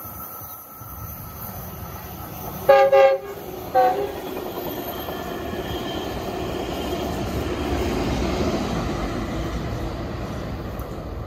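Locomotive air horn giving three short blasts, a chord of several notes, about three seconds in. Then the rumble of the passing train grows louder, loudest about eight seconds in.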